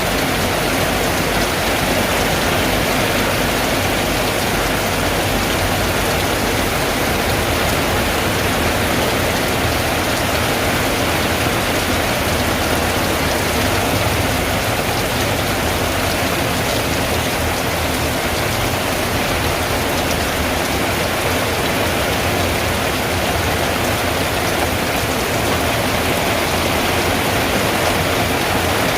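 Steady heavy rain drumming on a tin roof, an even unbroken patter with no let-up.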